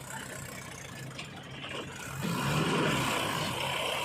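Diesel engine of heavy machinery running steadily, becoming louder about halfway through.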